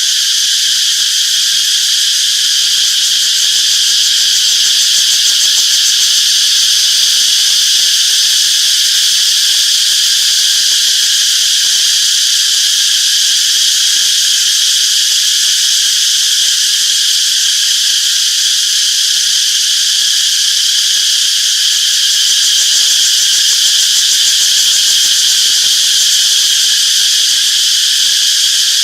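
Cicadas in full chorus: a loud, continuous, steady high-pitched buzz.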